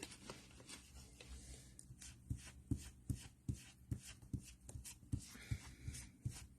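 Blending brush dabbed down repeatedly onto paper through a stencil: faint, soft taps about two to three a second, coming steadily from about two seconds in.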